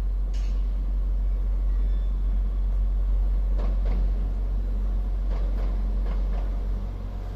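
Class 175 diesel multiple unit's underfloor diesel engines running with a steady low rumble, with a few brief higher-pitched sounds in the middle; it eases slightly near the end.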